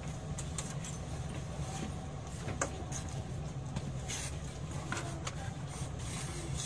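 Cabin noise inside a JR West 227 series electric train: a steady low rumble with scattered knocks and rattles.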